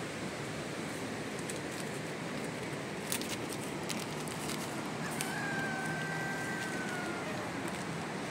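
Steady hiss of rain, with a few sharp taps. About five seconds in comes a high, drawn-out call of about two seconds that drops slightly in pitch at the end.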